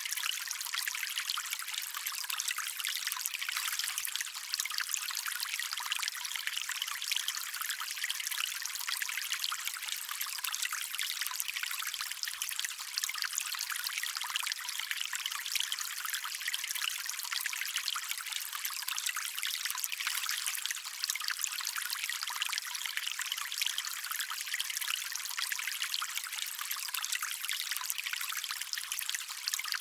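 Water running and trickling steadily in a small stream, a bright splashing hiss with little low rumble.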